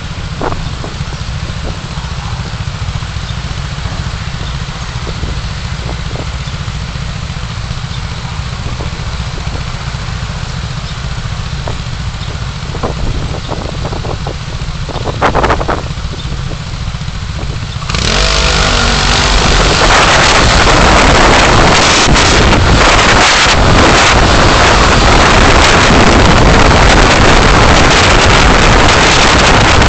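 A car driving along, a steady low rumble of engine and road noise with a few faint ticks. About two-thirds of the way through it jumps suddenly to a much louder, even rushing noise.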